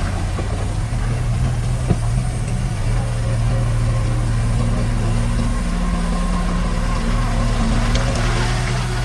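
Diesel engine of a piece of earthmoving equipment running steadily at low revs, with one short knock about two seconds in.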